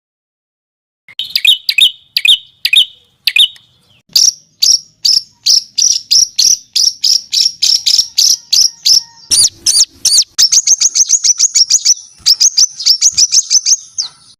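A songbird singing: after about a second of silence, a few separate whistled notes, then a long fast run of sharp repeated notes at about three a second, growing denser and quicker near the end. This is the harsh, tightly packed 'tembakan' phrasing that bird keepers use as tutor song for competition birds.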